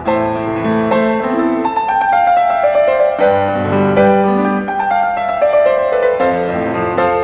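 Piano playing a melody over lower chords, each note struck and fading.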